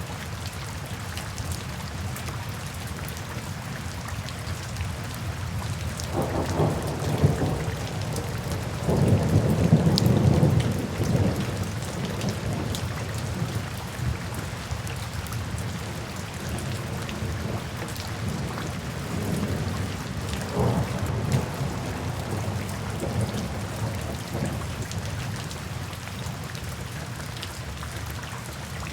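Steady rainfall hissing, with rolling thunder rumbling in low swells: one about six seconds in, a louder roll a few seconds later, and a weaker one about two-thirds of the way through.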